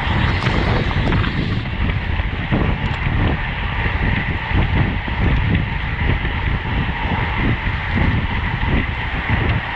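Wind buffeting the microphone of a camera on a road bike riding at race speed: an uneven, gusty rumble over a steady rush of road noise.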